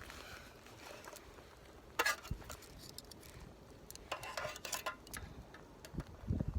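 A few light knocks and clinks of objects being handled: one sharp click about two seconds in, a short clatter around four seconds, and a couple of low thumps near the end.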